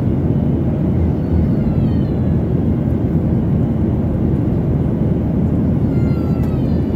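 Jet airliner cabin noise in flight: a steady low rush of engines and airflow.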